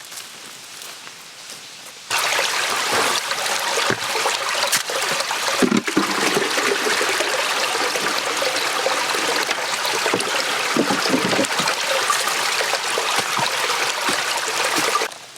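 Water pouring steadily, starting suddenly about two seconds in and stopping suddenly near the end.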